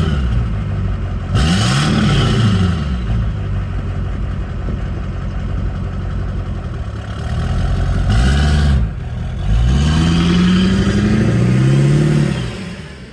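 Duramax diesel engine in a 1967 K20 truck, revved up and back down about four times, the last rev the longest, with steady running between.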